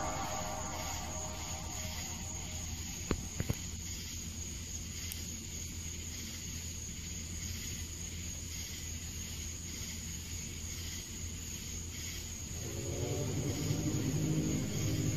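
Steady low humming drone of the kind reported as a 'strange sound in the sky', with a faint high chirring behind it and two short clicks about three seconds in. Near the end a deeper droning tone with many overtones swells in and gets louder.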